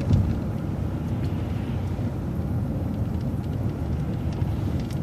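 City transit bus driving, heard from inside the cabin: a steady low engine and road rumble with a few faint clicks and rattles.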